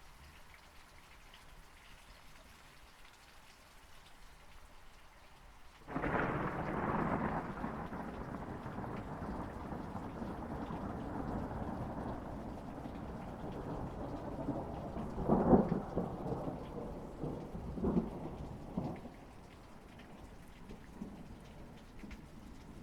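Steady rain falling, then about six seconds in a thunderclap breaks out suddenly and rolls on as a long low rumble, with several sharper cracks further on before it fades back to the rain.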